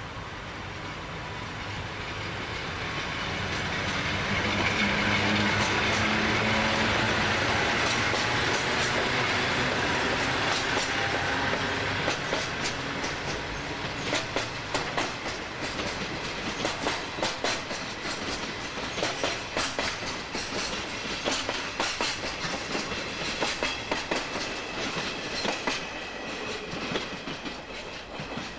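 A freight train passing close by. Its two electric locomotives go by first, and their running noise swells to a peak in the first half. Then the container wagons follow, their wheels clattering over the rail joints in a quick, steady rhythm.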